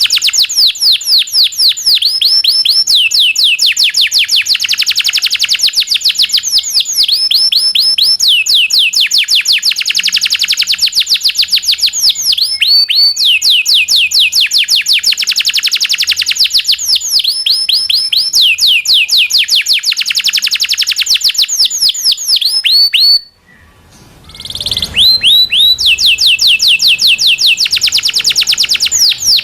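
Domestic canary singing long, rapid rolled trills ('ngerol'): fast runs of repeated downward-sweeping notes, changing phrase every few seconds. The song breaks off briefly about 23 seconds in, then resumes.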